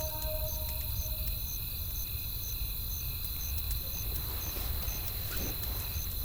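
Night campfire ambience: a few thin crackles of burning wood over a low wind rumble, with crickets chirping in a steady pulse of about two high chirps a second over a continuous insect drone.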